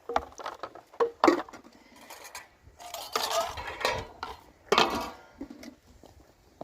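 Metal dishes and utensils clinking and clattering: a string of sharp knocks, some leaving a brief ringing tone.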